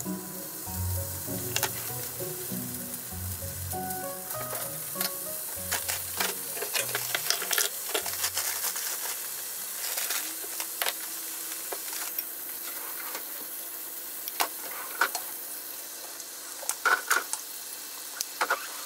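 Rolled chicken tenderloins frying in hot oil in a rectangular tamagoyaki pan: a steady sizzle with many sharp pops and crackles of spitting oil.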